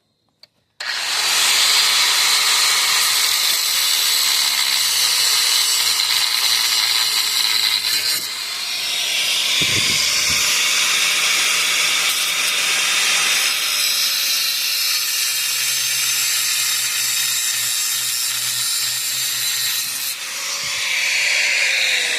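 Power tool cutting through a rusted brake caliper bolt, starting about a second in and running loud and steady, with its pitch falling near the end.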